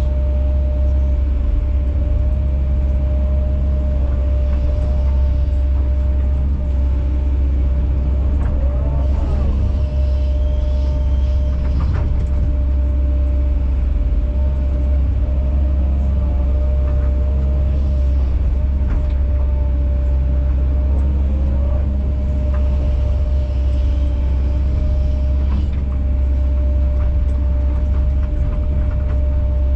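Kobelco SK210 excavator's diesel engine running steadily with a constant hydraulic whine, with a few knocks as the machine works through the shot rock.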